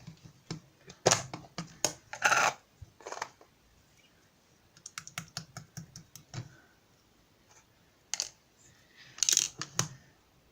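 Irregular runs of sharp clicks and taps in uneven clusters, with two slightly longer scraping bursts about two seconds in and near the end.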